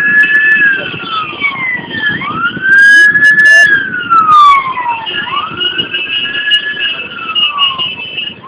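Emergency-vehicle siren wailing, each sweep rising, holding and falling about every three seconds, with a loud blast about three seconds in.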